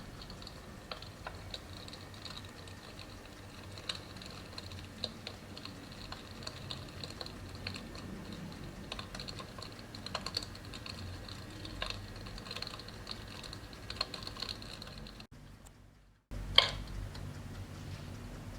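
Digital electric fireplace's simulated log-fire crackle: irregular small crackles and pops over a faint steady hiss. The sound cuts out for about a second near the end, then comes back with one loud sharp crack.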